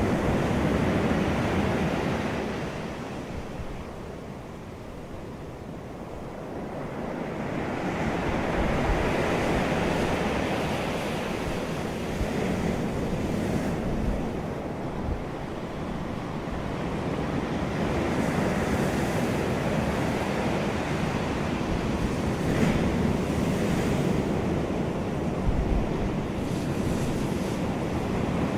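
Wind rushing, swelling and easing every several seconds like surf, with a few low buffets of wind on the microphone.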